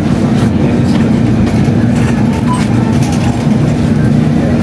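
Grocery store background noise: a steady low rumble with faint rattling and a couple of short electronic beeps.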